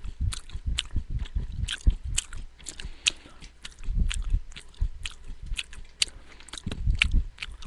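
Close-up chewing of uncooked, sprouting beans, rice and corn, with many irregular sharp crunches between the teeth, picked up by a headset microphone beside the mouth.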